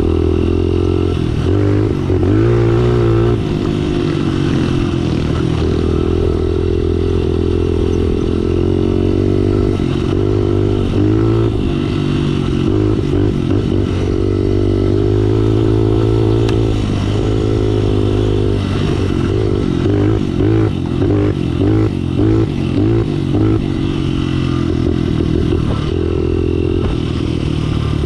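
Small pit bike engine running under way, its pitch rising and falling as the throttle opens and closes. About two-thirds of the way through, it breaks into a run of short, choppy pulses.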